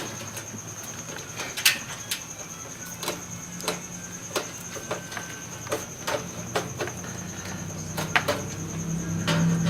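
Scattered sharp clicks and light knocks of computer hardware being handled during disassembly, about fifteen at irregular intervals, over a steady high whine; a low hum grows louder near the end.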